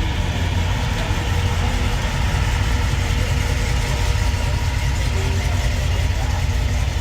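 A car engine idling nearby, a steady low rumble.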